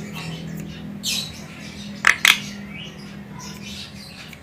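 Javan myna (jalak kebo) calling: a faint call about a second in, then two loud, short calls in quick succession a little after two seconds. A low steady hum runs underneath.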